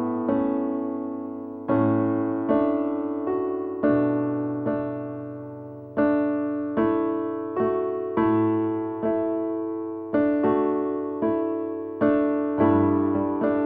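Background music: slow, gentle piano notes and chords, each struck and left to die away.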